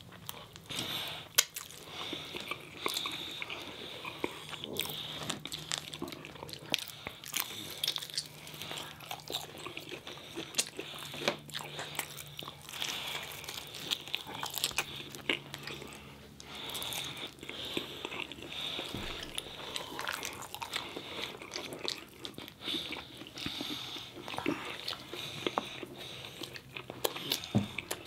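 Close-miked eating: biting and chewing food, with many small sharp clicks and crunches throughout.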